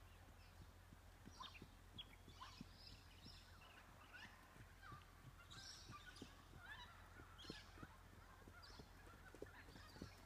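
Faint, scattered bird calls: many short chirps and squawks over a low steady hum.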